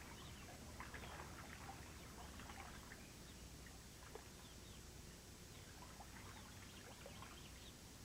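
Near silence: faint field ambience with scattered short, high chirps, denser in the first few seconds.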